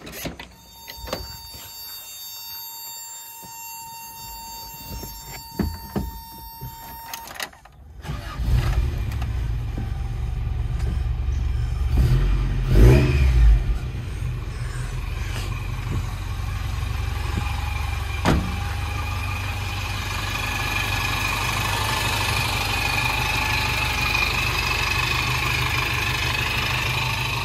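Toyota 22RE 2.4-litre fuel-injected four-cylinder engine being started about eight seconds in, after a stretch of a steady electronic warning tone and clicks from the cab. It is blipped once, its pitch rising and falling, and then idles steadily, running on the air flow meter being tested.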